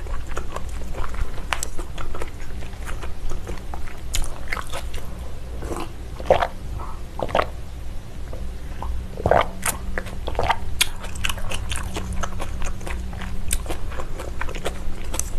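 Close-miked chewing of raw salmon sashimi: soft, wet mouth clicks and smacks at an irregular pace, with a drink taken from a glass partway through, over a faint steady hum.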